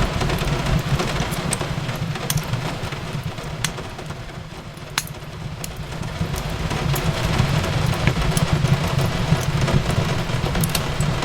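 Wood fire crackling in a fireplace, with scattered sharp pops over a steady low rumble and a hiss of rain. The whole bed dips a little in loudness about halfway through, then swells back.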